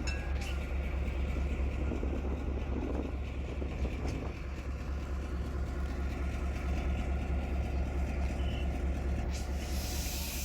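Indian Railways train running with a steady low rumble; near the end a loud burst of air hiss starts, like air released from the train's brakes.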